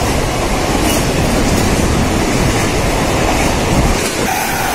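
Mumbai suburban local train running at speed: a loud, steady rush of wheel and track noise.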